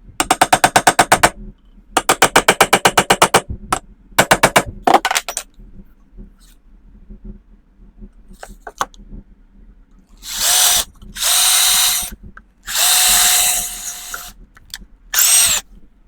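Power drill running in short bursts: three bursts with a rapid rattling pulse in the first few seconds, then four longer, steadier bursts with a held whine in the second half.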